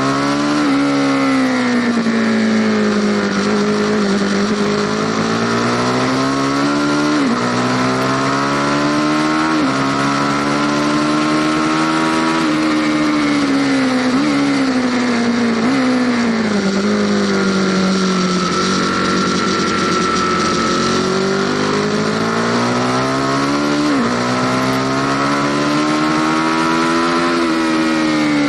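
Aprilia Tuono Factory motorcycle engine pulling hard through the gears, seen from on board: the revs climb and drop sharply at several quick upshifts, fall away for a few seconds around the middle as the bike slows, then build again. Steady wind rush runs underneath.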